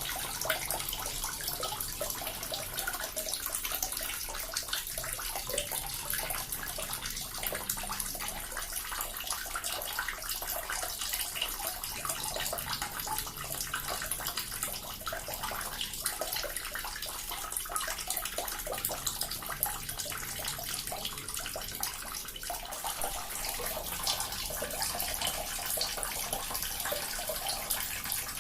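A small water fountain running steadily, its water splashing and trickling continuously.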